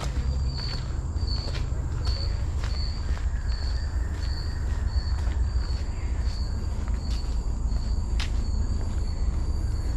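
An insect chirping steadily, a short high note repeated evenly about twice a second, over a loud low rumble on the microphone.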